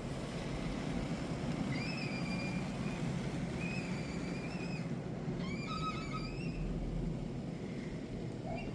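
Istobal M'NEX 22 touchless car wash running its cycle: a steady rushing of high-pressure water spray and pump noise. Several short, wavering high whistling tones sound over it, one about every second or two.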